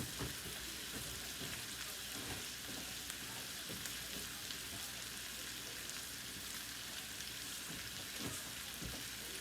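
Fish and garlic frying in a pan over a low flame: a steady, quiet sizzle with a few faint pops.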